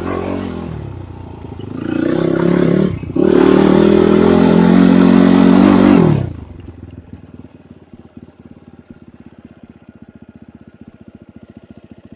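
Enduro motorcycle engine revving hard under load, rising in pitch about two seconds in and dipping briefly near three seconds, then cutting off sharply about six seconds in to a quiet, even idle.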